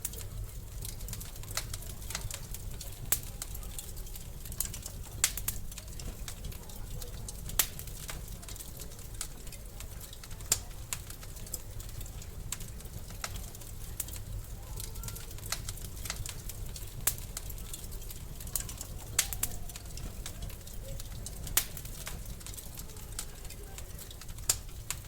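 Wood fire in a fireplace crackling: irregular sharp pops and a dozen or so louder snaps over a steady low rumble.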